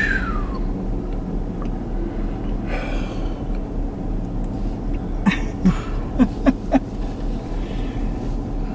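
Steady low hum inside a parked car, with a handful of short clicks and knocks about five to seven seconds in.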